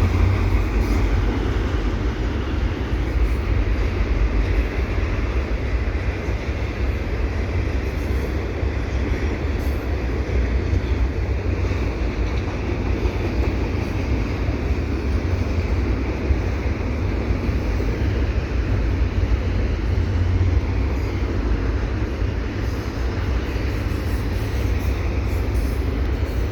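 An eastbound CPKC double-stack freight train rolling past with a steady, heavy rumble of wheels on rail.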